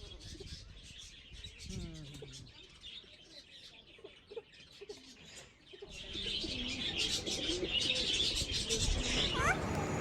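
Birds chirping, with low cooing calls like those of doves or pigeons. A louder steady hiss joins about six seconds in, and a few rising calls come near the end.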